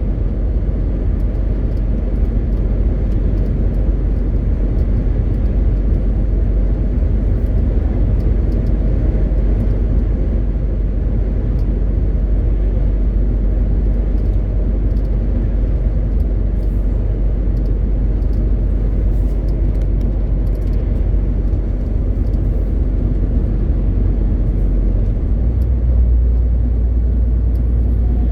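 MAN TGX 18.520 truck's straight-six diesel running on the move, a steady low drone mixed with road noise; near the end the deepest rumble grows louder.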